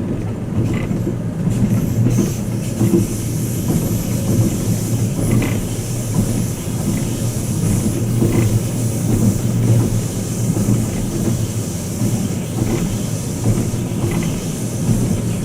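Twilight Express Mizukaze (Kiha 87 series) train running at speed, heard inside the passenger cabin: a steady low rumble with a few faint, irregular clicks of the wheels over rail joints.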